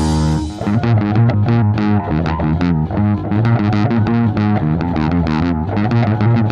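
Ibanez RG420EX electric guitar tuned to drop E-flat, playing a distorted hard-rock riff: a chord rings for about half a second at the start, then a quick run of short picked notes.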